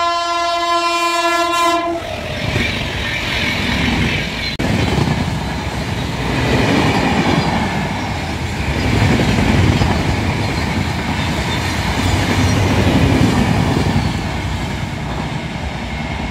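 Locomotive horn sounding one long steady note that stops about two seconds in. It is followed by the rumble and wheel clatter of a passenger train passing at speed.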